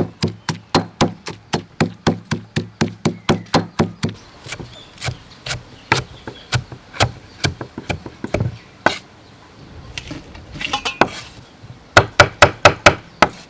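Rapid, regular knocks of food being struck on wood while preparing a sauce, about four to five a second. Sparser knocks follow, then a pause and a quick final flurry of strikes near the end.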